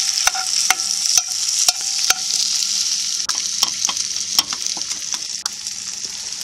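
Rice frying in hot olive oil in a pan, a steady sizzle. A utensil stirs it, tapping and scraping the pan with a short ring, about twice a second for the first two seconds and then irregularly.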